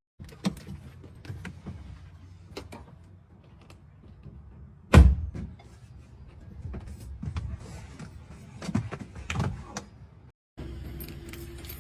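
Someone getting into a car: scattered clicks and knocks over a low steady hum, with a car door shutting hard about five seconds in.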